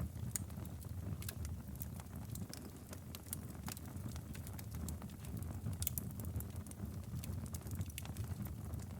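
Wood fire in a fireplace crackling, with irregular sharp pops and snaps over a low, steady rumble of burning flames. A few louder pops come close together about six seconds in.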